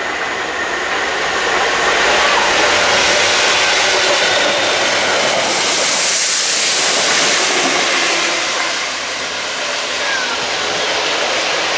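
A train passing close by: a loud, steady rushing noise that swells about two seconds in and grows brightest and hissiest around the middle.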